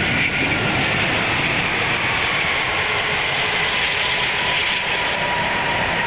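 Airbus A380 on its landing roll just after touchdown, heard from the flight deck: a steady, loud rush of jet engine and airflow noise.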